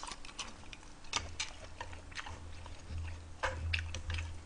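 Close-miked chewing of kimchi-braised beef short rib, with scattered small wet clicks and smacks.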